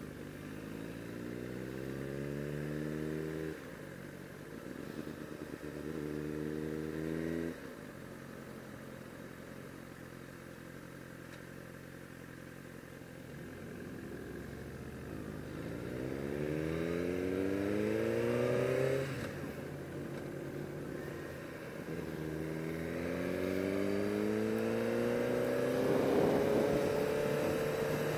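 Sport bike engine accelerating in several pulls, its pitch rising steadily and then dropping suddenly at each gear change, with a steadier stretch of cruising in between.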